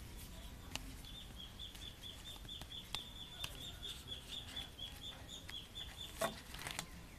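A bird chirping in quick, even succession at one high pitch, with a few sharp clicks from cardboard box packaging being handled.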